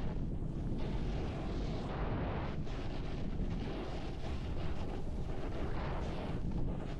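Rushing wind buffeting the microphone, with a snowboard sliding and scraping over snow during a downhill run.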